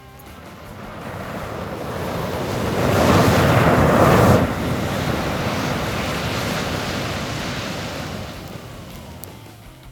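Fire flaring up with a rushing hiss. It builds over about three seconds, peaks about four seconds in, then slowly dies down.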